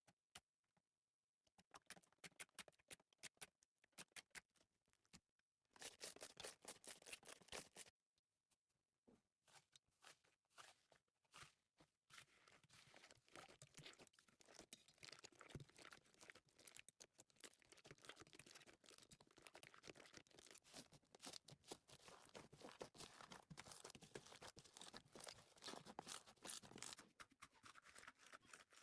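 Slime being squished and stretched by hand, making quiet sticky crackles and pops. Scattered clicks at first, a denser burst about six seconds in, then continuous crackling from about twelve seconds on.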